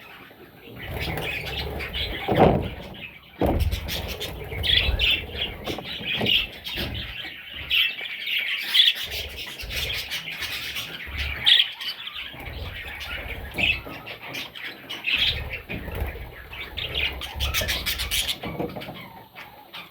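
Budgerigar chicks chirping and squawking in rapid, overlapping short calls, with low knocks and rustling underneath; the calling stops shortly before the end.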